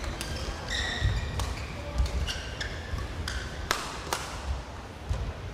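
Badminton rally: rackets striking the shuttlecock in sharp cracks every second or so, with shoes squeaking on the court floor between shots.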